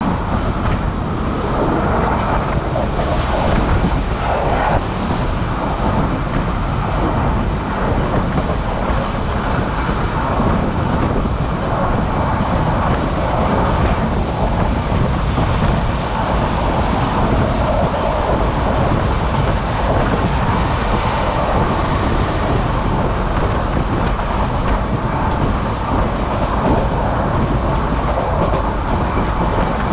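Goods train running along the line, heard from the open rear platform of its guard van: a steady loud rumble and rattle of wheels on rail.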